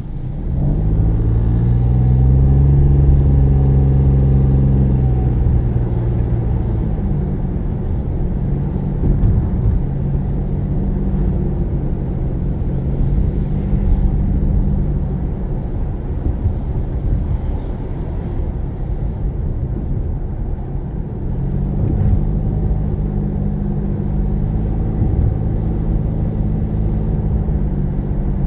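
Car engine and tyre noise heard from inside the cabin. The engine pulls away about half a second in and eases off around five seconds, then builds again a little after twenty seconds.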